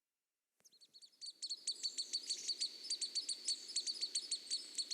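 Pygmy nuthatches calling: a rapid run of short, high-pitched chirps, several a second, starting about half a second in.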